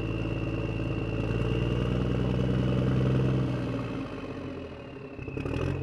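A motor running steadily with a pitched drone and a thin high whine, then weakening near the end.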